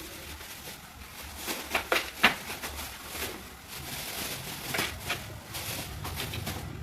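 A few light knocks and clatters of household items being handled, in a cluster about two seconds in and again near five seconds, over a low steady background hum.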